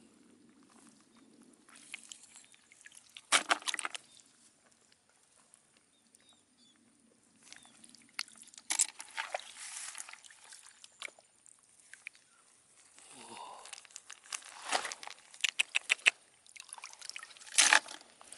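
Water splashing and sloshing in irregular bursts, with a few sharp clicks, as if hands were working through shallow water.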